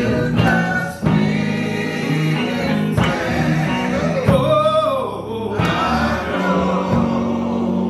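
Gospel singing with church band accompaniment, guitar and bass under the voices, including a held, bending vocal note near the middle.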